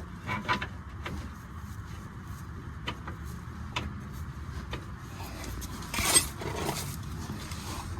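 Scattered metallic clicks and knocks, with a longer scraping rustle about six seconds in, as a power steering high-pressure hose and its fittings are worked out past metal parts in a car's engine bay. A low steady rumble runs underneath.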